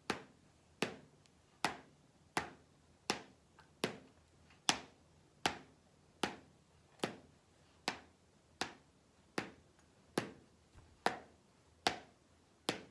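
A steady beat of sharp finger snaps, about one every 0.8 seconds, keeping time for saying the drill's letter sounds aloud.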